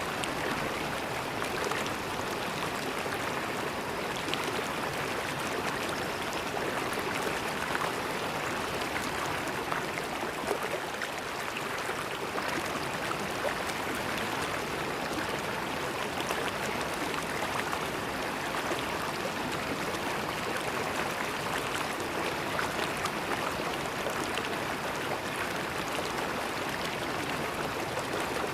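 River water flowing and gurgling over stones in a steady rush with faint crackle.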